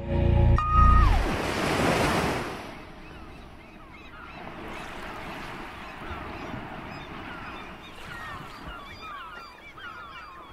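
Background music cuts off about a second in, followed by a rush of surf washing in. Then many birds call in short, quick chirps over a low, steady wash of waves.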